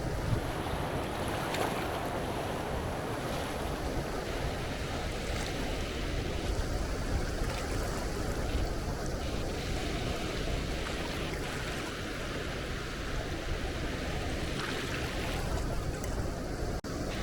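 Sea waves washing onto a beach, with strong wind gusting and rumbling on the microphone.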